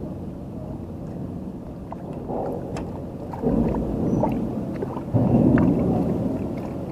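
Harbour water sounds with a low, steady hum like a boat engine. The washing noise swells up twice, about halfway through and again a little later.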